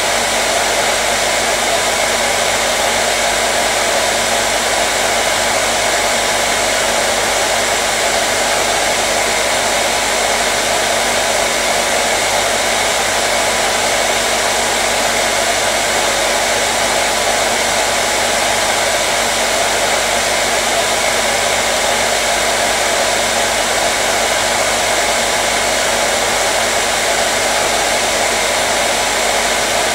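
Hair dryer running continuously at a steady speed: an even, loud rushing of air with a faint steady motor hum underneath, used as white noise to soothe a colicky baby.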